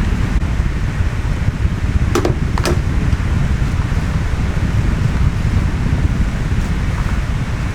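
Steady low rumble of moving air, like a fan or wind buffeting the microphone, with two short sharp sounds about two seconds in.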